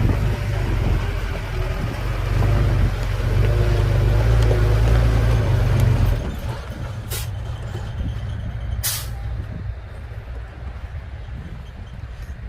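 Shantui bulldozer's diesel engine running hard with a heavy low rumble, then easing off about six seconds in. Two short hisses follow, a couple of seconds apart.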